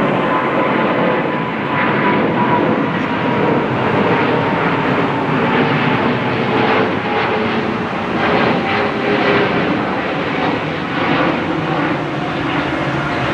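Airbus A380's four jet engines and the rush of air during landing: a steady, loud roar with faint whining tones running through it.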